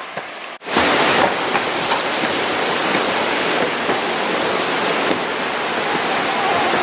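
Waterfall rushing: a steady, loud hiss of falling water that comes in abruptly about half a second in.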